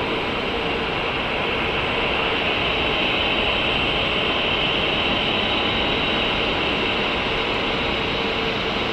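Boeing 747-8F freighter's GEnx turbofan jet engines running steadily, a loud even rush with a high hiss and a faint steady hum underneath.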